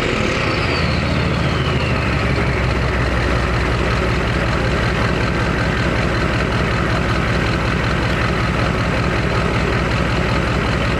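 Chevrolet 6.5L V8 turbo diesel idling steadily through a 4-inch Diamond Eye exhaust, just after a rev. A high turbo whistle winds down over the first couple of seconds.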